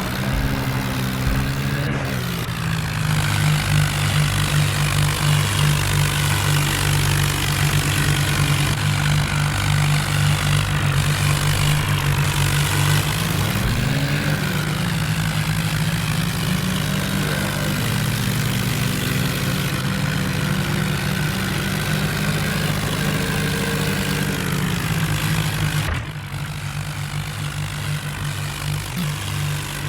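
Tractor engine running hard and loud, its pitch rising as the throttle is opened about 2 s in and again around 14 s, then easing off. About 26 s in it drops suddenly to a quieter, lower run.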